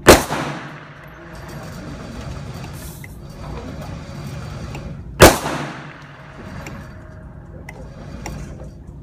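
Two gunshots about five seconds apart, each followed by a short echoing decay.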